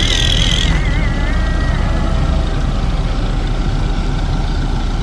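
Heavy truck engine running steadily with a deep rumble. A thin wavering high tone sounds over it for the first two seconds.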